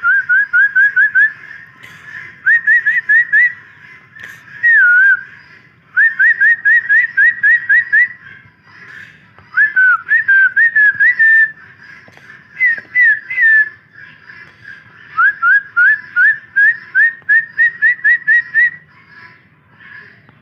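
A bird whistling loudly: runs of short rising whistled notes, about four a second, in phrases of five to eight, with a few falling or wavering notes between the runs.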